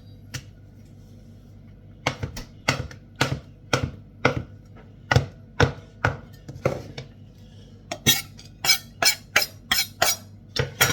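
Knife chopping ham on a hard surface: a run of sharp knocks, slow and uneven at first, then quicker and brighter near the end.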